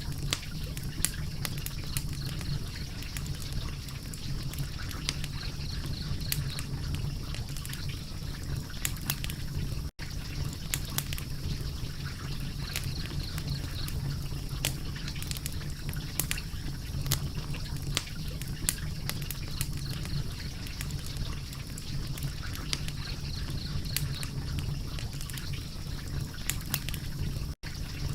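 Wood fire crackling, with frequent sharp snaps and pops over a steady low rumble. The sound cuts out for an instant twice.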